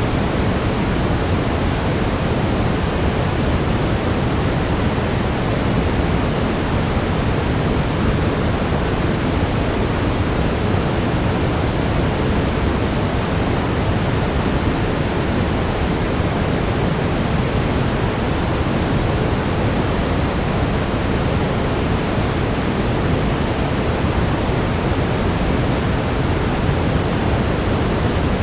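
Steady brown noise: an even, deep hiss, heaviest in the low end, with no change throughout.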